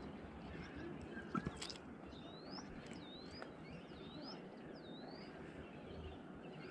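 A bird calling four times, short upward-sweeping chirps about a second apart, over a faint background hiss. A couple of sharp clicks come just before the first call.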